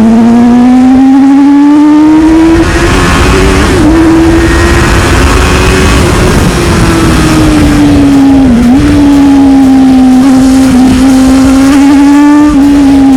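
Sport motorcycle engine running at steady high revs under way, its pitch climbing slowly for the first half and then easing off, with a rushing noise over it in the middle.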